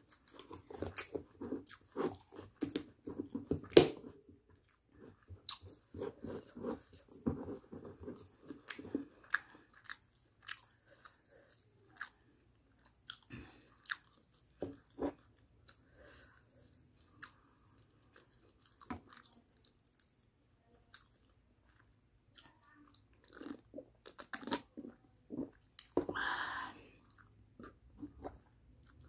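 A person chewing food close to the microphone, with crunches and wet mouth clicks. The chewing is dense for the first ten seconds and then thins out to occasional clicks, with one longer mouth sound of about a second near the end.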